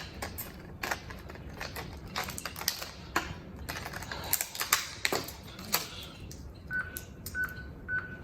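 Stiff plastic blister packaging being pried and bent by hand to free a CR2032 coin battery, giving irregular clicks and crackles. Near the end, three short high beeps a little over half a second apart.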